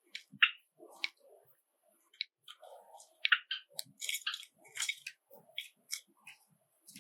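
Pet Java sparrows calling in short chirps, scattered irregularly and sometimes in quick runs, among small clicks and rustles.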